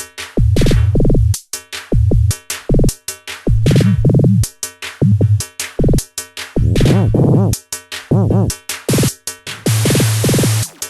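Korg Volca Drum synth drum machine playing a looping electronic pattern: deep kick hits, pitched tom-like hits that bend in pitch, and a long hiss about ten seconds in.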